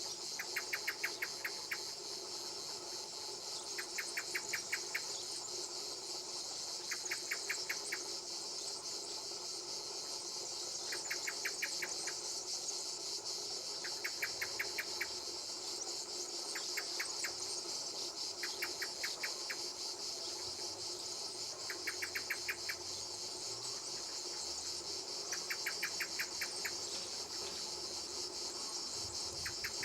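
Insects calling: a steady high-pitched buzz, with a short rattling chirp of rapid clicks that repeats about every three seconds.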